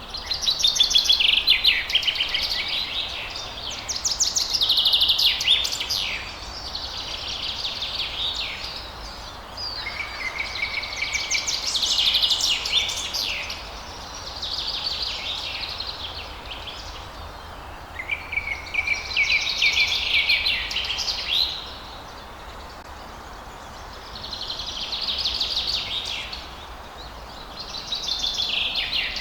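Songbird singing in a run of phrases of about two seconds each, fast trills and slurred notes, with short pauses between them, over a faint steady outdoor hiss.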